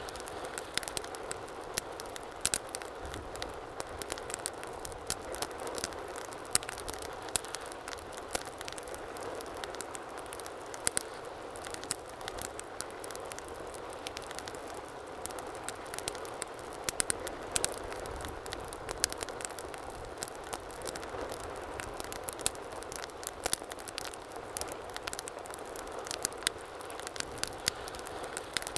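Wood fire burning in a fireplace: a steady low hiss with frequent sharp, irregular crackles and pops.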